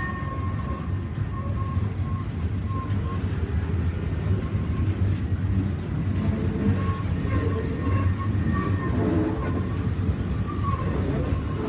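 Train moving on the rails: a steady low rumble.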